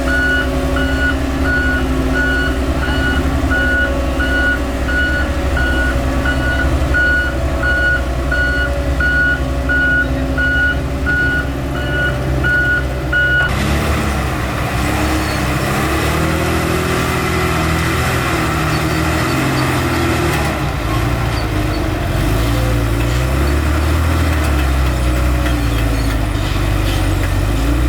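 Reversing alarm of heavy earthmoving machinery beeping in an even run over a diesel engine. The beeping stops abruptly about halfway through, and the engine keeps running with its pitch rising and falling.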